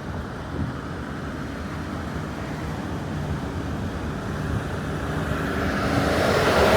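A passing vehicle approaching, its engine and tyre noise growing steadily louder toward the end, over a steady low rumble of wind on the microphone.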